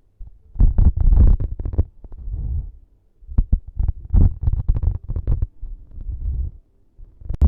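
ASMR props handled close against a microphone: irregular bursts of muffled rubbing and scratching with a few sharp taps in the middle, separated by short pauses.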